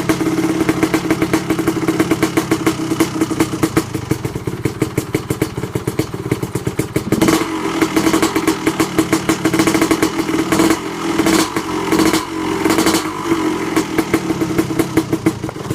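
Yamaha YZ250 single-cylinder two-stroke motocross engine with an FMF Gnarly expansion pipe and Pro Circuit R304 shorty silencer running at a fast, crackling idle, with several quick throttle blips in the middle. The idle is set slightly off and needs a small adjustment.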